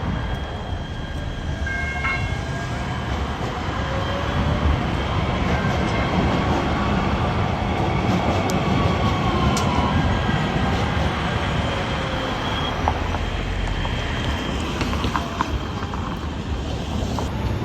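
Metro Rail light-rail train running past: a steady rumble that builds for a few seconds, then eases off, with a faint whine that rises and falls in pitch.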